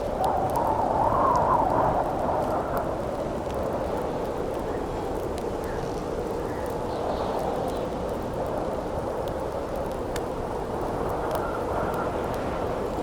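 Howling wind that swells and eases, swelling about a second in and again near the end, over a crackling campfire with scattered sharp pops.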